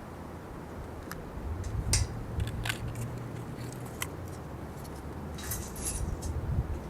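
Scattered light clicks and clinks of small hard objects being handled, in a few short clusters, over a steady low rumble.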